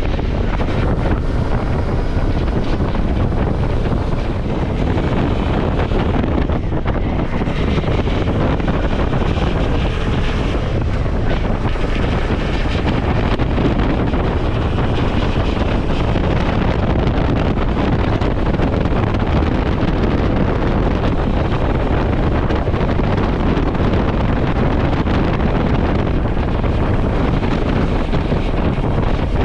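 Steady wind rushing over the microphone of a motorcycle riding at speed, with the Suzuki V-Strom's running noise mixed in underneath.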